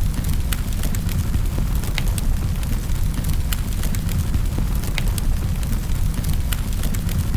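Wood fire crackling in a fireplace: a steady low rumble of the flames with irregular sharp pops and crackles, several a second at times.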